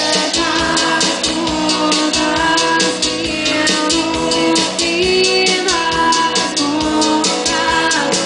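Live band music with a drum kit keeping a steady beat under held instrumental or sung notes.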